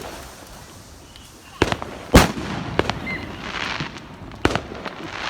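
Fireworks going off: several sharp bangs, the loudest about two seconds in, with crackling hiss between them.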